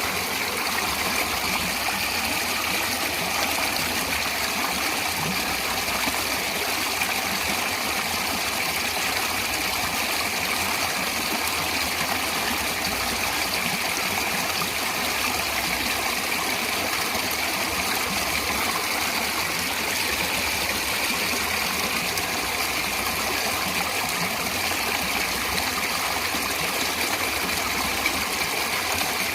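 Natural flowing water, a steady rushing with no pauses or changes.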